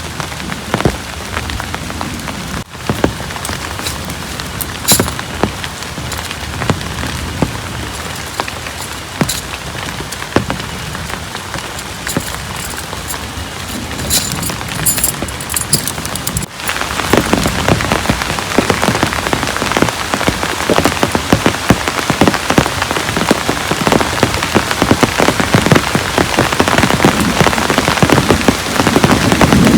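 Heavy rain falling, with sharp individual drops striking a surface close by. After a brief break about halfway through, the rain is louder and denser.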